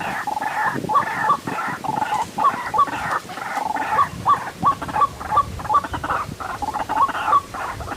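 White-breasted waterhen calls: short, sharp notes repeated about three times a second over a harsh, continuous chatter.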